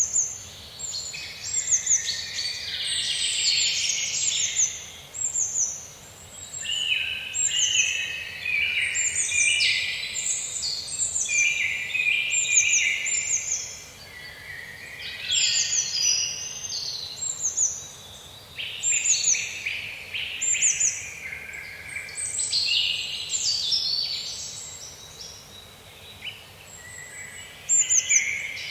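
Wild songbirds chirping and singing in a forest, many short high calls and trills overlapping at different pitches with no pause.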